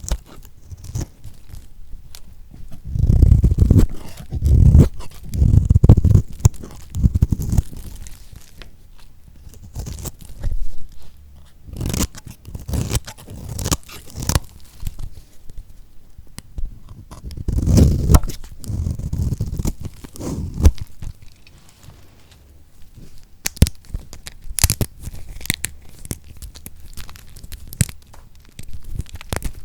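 A knife cutting through bars of lacquered soap, the hard coated surface crunching and crackling in many sharp clicks. There are heavier, louder thuds in two stretches, a few seconds in and again past the middle.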